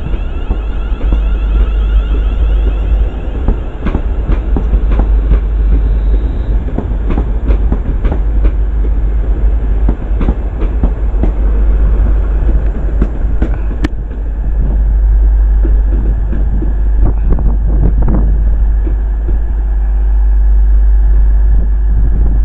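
Avanti West Coast Class 390 Pendolino electric train pulling out of the platform and running past. Its wheels click rapidly over the rail joints above a steady heavy rumble, with a high whine in the first few seconds.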